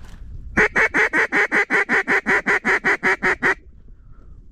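Duck call blown in a fast, even run of about twenty quacks, roughly seven a second, stopping about three-quarters of the way through: calling ducks that flared back in.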